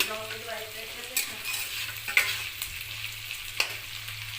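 Food sizzling as it fries in a pan and is stirred, with four sharp knocks of the stirring utensil against the pan.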